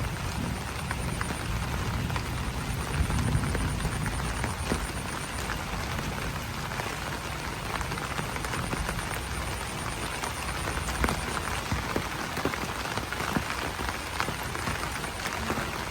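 Steady rain falling on banana leaves, a dense patter with scattered single drops ticking on the leaves. A faint, high, rapid trill comes and goes, and a low rumble sits under the rain in the first few seconds.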